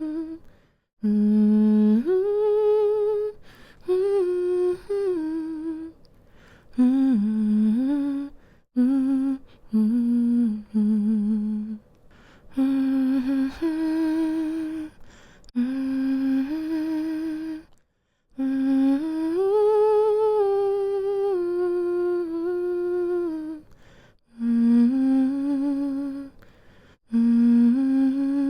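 A woman humming a slow, soothing lullaby tune in short phrases of a few seconds each, with brief pauses for breath between them.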